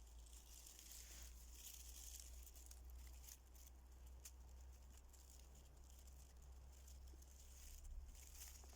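Near silence: faint rustling and scattered light ticks over a steady low rumble.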